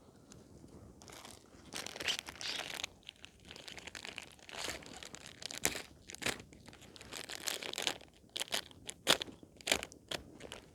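Crinkling and crunching of handled packaging or a bag being rummaged through, in irregular bursts with some tearing-like rustles.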